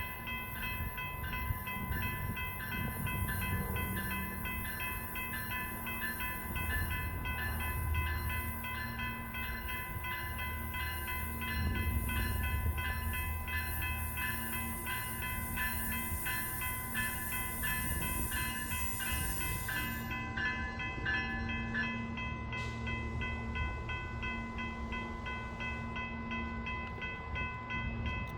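Grade-crossing bell ringing in a fast, even rhythm over the low rumble of a Silverliner V electric commuter train at a station. A high hiss cuts off sharply about twenty seconds in.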